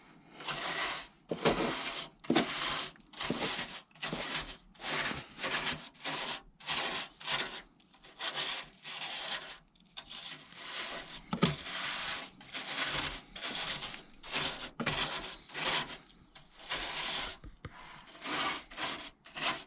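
Nylon brush scrubbing the grimy surface of a condensing boiler's heat exchanger, in quick repeated back-and-forth strokes, about one and a half a second.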